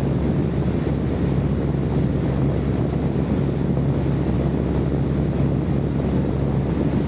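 Steady live-recorded white noise for sleep: a constant low rumble with a steady low hum running under it, unchanging in level.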